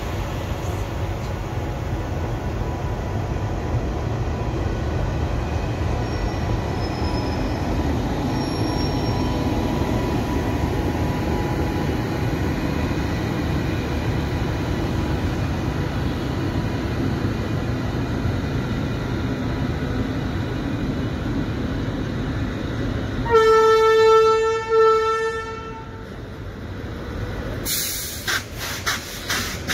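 An Indian Railways express train hauled by a WAP7 electric locomotive rolls past as it departs, a steady rumble throughout. About 23 seconds in, a loud train horn sounds in two blasts close together lasting about two seconds. Near the end comes a run of sharp clacks of coach wheels over rail joints.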